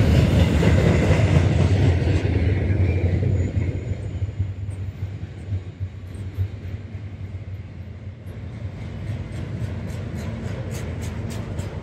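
Long freight train of double-stacked shipping containers rolling past, a steady low rumble that is loudest for the first few seconds and then eases a little. Near the end, a run of regular clicks comes in, about two or three a second.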